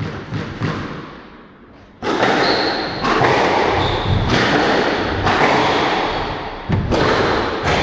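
Squash rally in an echoing hall: the ball is struck and thuds off the court walls, with brief high shoe squeaks. A loud, dense rush of noise sets in suddenly about two seconds in and lasts until the last few strikes.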